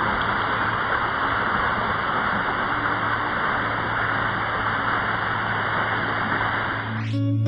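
Spruce Flats Falls: a waterfall's steady, even rush of falling water. Near the end, guitar music comes in.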